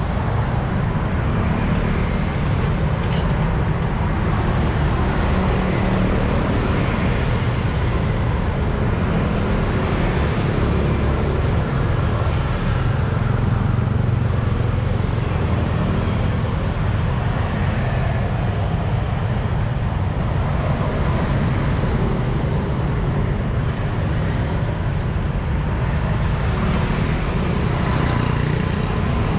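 Steady road traffic noise of motor vehicles passing, with a heavy low rumble throughout.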